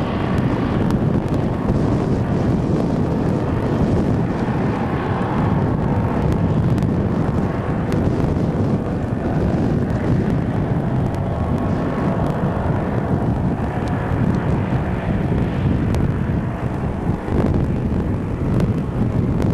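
AT-10 airship's propeller engines droning steadily as it flies by, with wind rumbling on the microphone.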